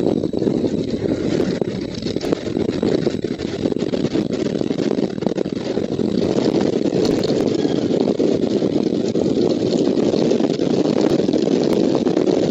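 Strong wind buffeting the nest camera's microphone: a loud, steady, low rumble with small crackles over it.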